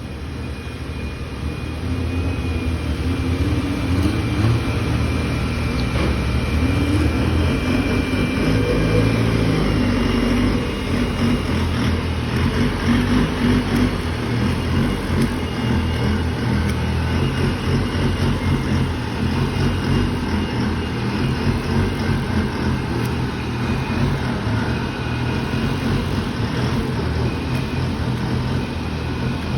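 Big-turbo Pro Truck drag-racing pickup's engine running and revving hard, growing louder about two seconds in.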